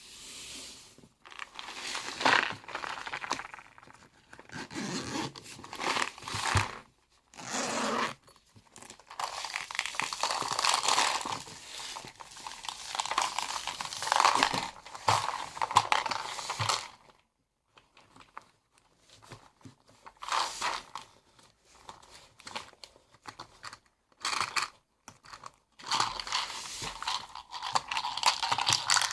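Crinkling and rustling of something being handled, in irregular bursts with brief pauses, thinning to scattered small clicks past the middle before a longer stretch of rustling near the end.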